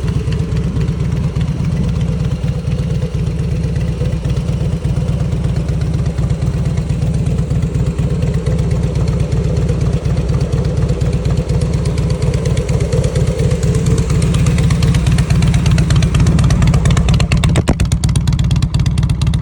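2003 Harley-Davidson Heritage Softail's Twin Cam 88B V-twin running through fishtail exhausts, with a steady stream of low exhaust beats. It gets louder in the last few seconds.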